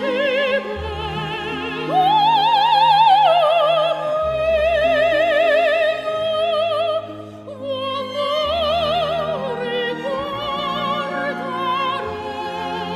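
Operatic singing with strong vibrato, long held notes over a slow orchestral accompaniment.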